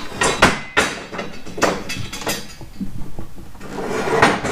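Scrap pieces of steel being rummaged through and handled, clanking and clinking together in a run of irregular sharp metallic knocks.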